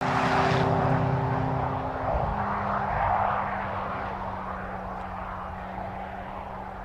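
McLaren 675LT's twin-turbo V8 running with a steady note that drops in pitch about two seconds in, then fades away gradually.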